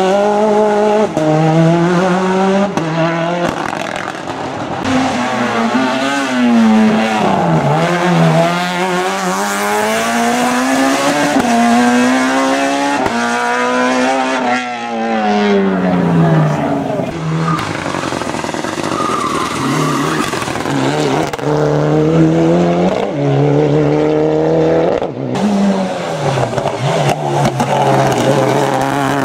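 Racing car engine at full throttle on a hillclimb, its pitch climbing and dropping back over and over as it shifts through the gears, with some tyre squeal.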